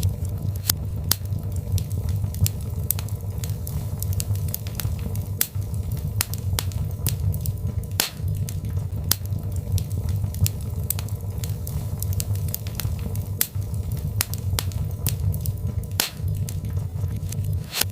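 Birch logs burning in a fireplace, crackling and popping irregularly over a steady low rumble of flames.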